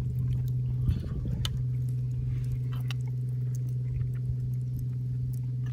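A person eating rice, with chewing and small scattered clicks of a spoon against a pan, over a steady low hum.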